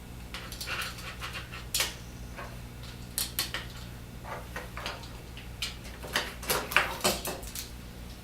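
Irregular short clicks and knocks of plastic and metal vertical blind track parts being handled and fitted, some in quick clusters, over a steady low hum.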